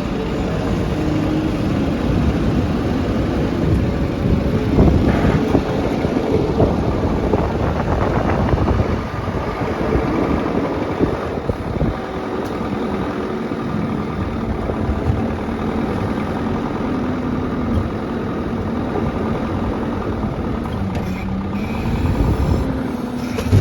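Farm loader tractor engine running steadily, its pitch drifting up and down with the throttle.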